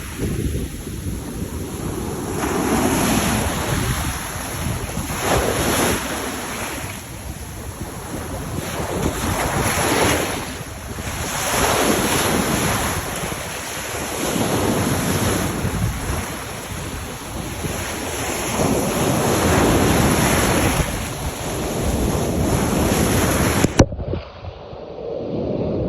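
Hudson River water washing against the shore in swells every couple of seconds, with wind buffeting the microphone. Near the end a click cuts to a duller, quieter version of the water sound.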